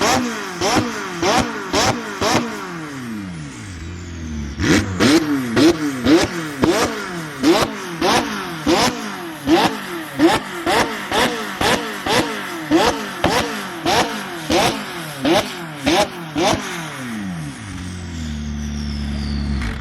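Tuned McLaren 600LT twin-turbo V8 being blipped over and over while stationary: quick revs in steady succession, each cut off with a sharp crack from the exhaust. The revving pauses briefly about four seconds in, then resumes, and the engine settles to a steady idle near the end.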